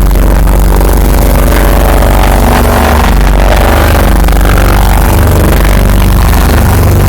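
Small propeller plane's piston engine droning steadily and very loud, heard from inside the cabin, with a deep low hum and a wash of noise over it.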